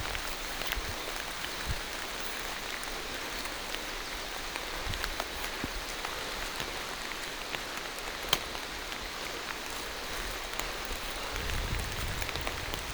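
Rain falling on forest foliage: a steady patter of many scattered drops, with one sharper drop hit about eight seconds in. A low rumble comes in near the end.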